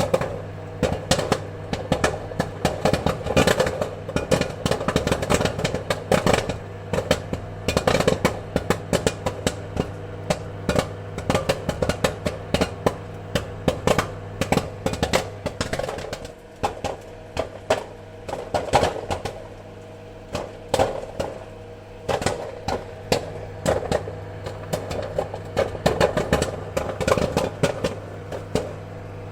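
Popcorn kernels popping in quick, irregular clusters of sharp pops over a steady hum, thinning out for a few seconds about halfway through before picking up again.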